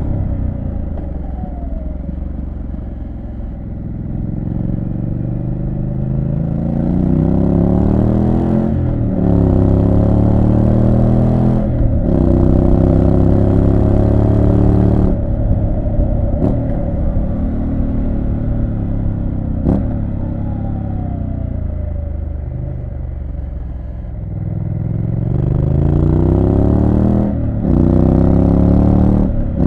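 Triumph Street Scrambler 900's parallel-twin engine accelerating up through the gears, its pitch climbing and dropping at upshifts about 9, 12 and 15 seconds in. The revs then fall away as the bike slows, and it pulls hard through two more gears near the end.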